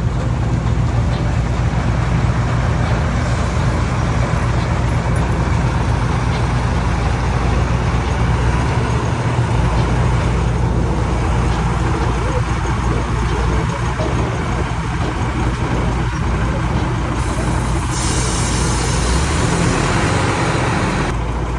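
Steady low rumble and noise of a running vehicle, with a brighter hiss coming in for a few seconds near the end.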